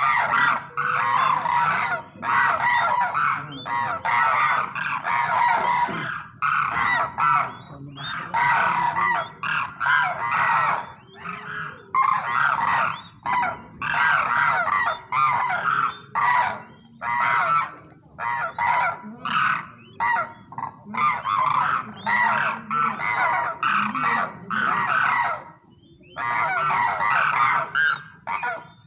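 A flock of cranes calling, many birds overlapping in loud honking runs broken by short pauses.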